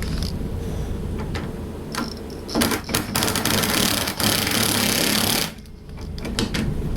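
A power impact gun running a nut onto a bolt, rattling in one burst of about two and a half seconds that stops suddenly about five and a half seconds in. Before the burst there are a few clicks and handling knocks.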